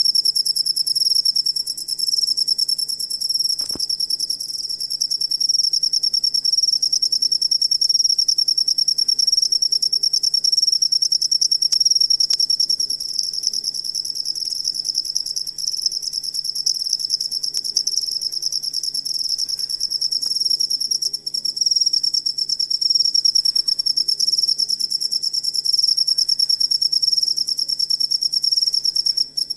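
Crickets chirping in a fast, continuous high-pitched trill that holds steady throughout.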